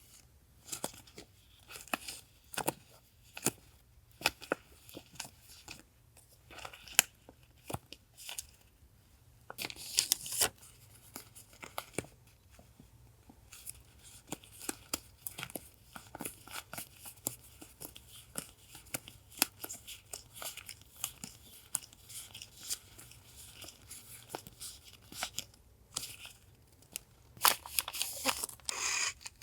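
Paper and plastic stationery packaging being handled and unwrapped close up: crinkling and rustling with many small taps and clicks, and louder bursts of rustling about ten seconds in and again near the end.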